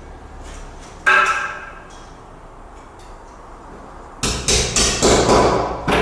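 Hammer blows driving metal anchors into drilled holes in a concrete floor slab to fix adjustable floor joists. One ringing blow about a second in, then a quick run of about six blows near the end.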